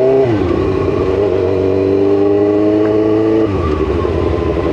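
Motorcycle engine under way in traffic: the revs fall sharply just after the start, climb slowly again, then drop about three and a half seconds in and run lower and steadier.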